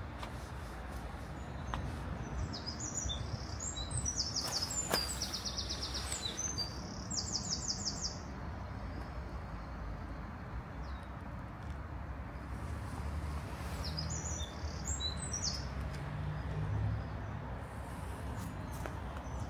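A small songbird singing in two bursts of chirps and rapid trills, one a few seconds in and another about two-thirds of the way through, over a steady low background rumble.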